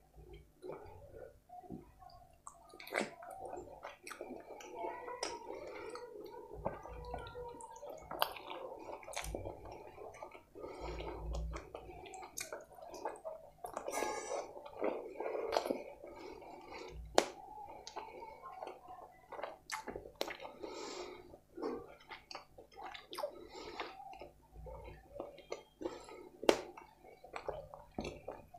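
Close-miked wet chewing and lip-smacking of saucy butter chicken curry and rice, with many short sharp mouth clicks.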